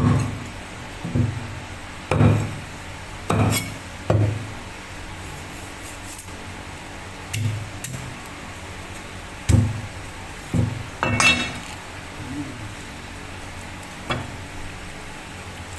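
Knife chopping through chicken on a cutting board: about a dozen dull knocks at irregular intervals, one about eleven seconds in with a short metallic ring.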